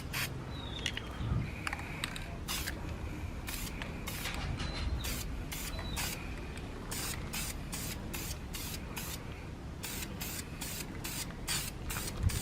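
Aerosol spray paint can spraying brake caliper paint in a long series of short hissing bursts, laying on light coats.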